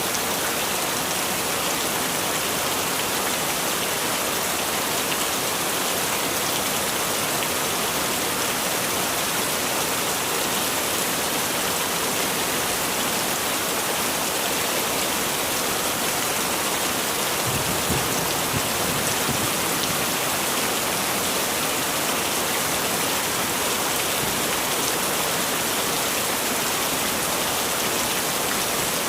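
Heavy rain falling, a steady dense hiss, with a brief low rumble a little past the middle.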